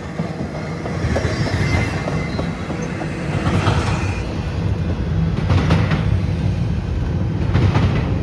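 Freight train cars rolling past close by: a steady heavy rumble with the wheels clattering over the rail joints.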